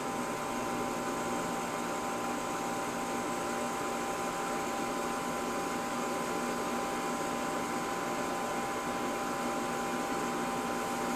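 Steady hum and hiss of a running machine or fan, with a few faint, even tones and no change in level.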